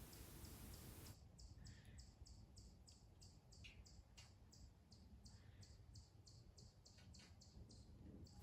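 Near silence with faint, high chirps repeating evenly, about three or four a second, starting about a second in.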